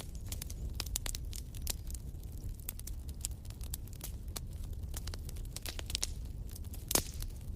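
Wood fire in a fireplace crackling, with irregular sharp pops several times a second and one louder pop near the end, over a steady low rumble.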